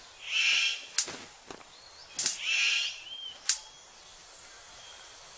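Male superb bird of paradise calling: two harsh, hissing calls about a second long, with a few sharp clicks between them and a brief whistled note, then only faint forest background.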